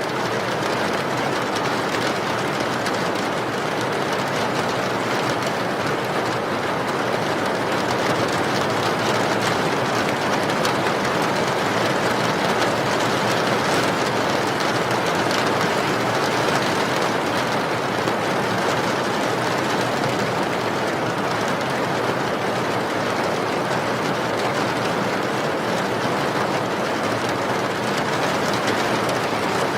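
Steady rain, an even, dense hiss that does not change.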